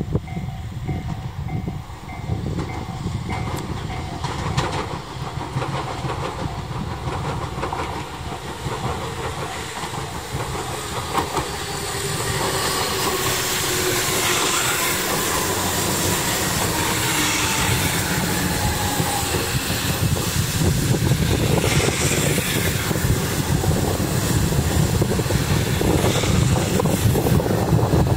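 Tobu 500 series Revaty electric limited express arriving and braking to a stop: wheels clattering over the rails and a whine that falls in pitch as the train slows, growing louder as it draws alongside.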